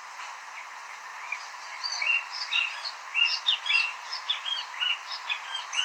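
Small birds chirping, with many short, quick, high chirps beginning about a second in over a steady hiss.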